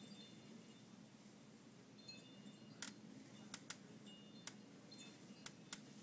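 Near silence: a faint low hum with a few faint sharp ticks in the second half and a faint high tinkling now and then.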